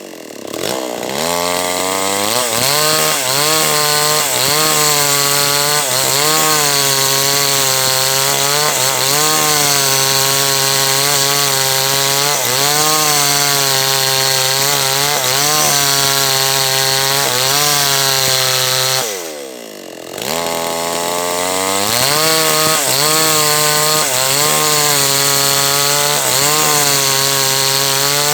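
H&L Pro 5800 two-stroke chainsaw cutting into a large teak log, its engine pitch wavering as it works under load. Right at the start and again about two-thirds of the way through, the revs drop away and then climb back up.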